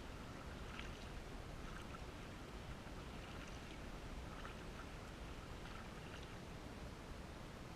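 Faint kayak paddling: light splashes and drips of water off the paddle blade at about one a second, over a low steady rumble.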